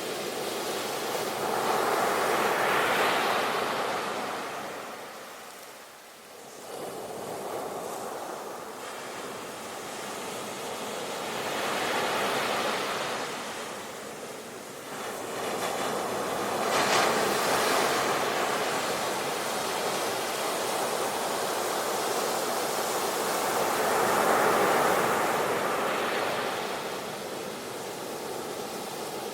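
Ocean waves breaking and washing on the shore, a steady rush of surf that swells and ebbs every several seconds, with four or five surges in all.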